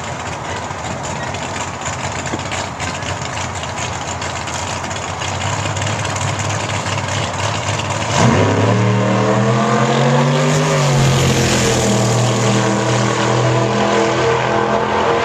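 Alcohol-burning drag car's Chevrolet engine, with a steady engine rumble at first. About eight seconds in, an engine comes in loudly, its pitch climbing for a couple of seconds and then holding at a steady high idle.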